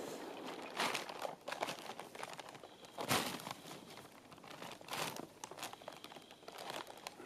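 Footsteps crunching in snow on lake ice: slow, spaced steps, the strongest about two seconds apart, with rustling between them.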